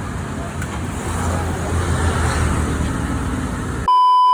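Steady road traffic noise. Near the end it is cut off by a loud, steady electronic beep, about half a second long.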